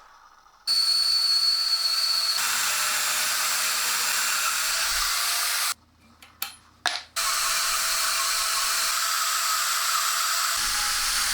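Power sander running against wood with a steady hissing grind. It stops abruptly about six seconds in, a few light clicks follow, and it starts again a second later.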